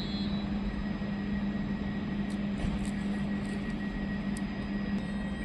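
Train running past on the rails: a steady rumble with a low hum and a few faint high clicks, after the wheel squeal has died away.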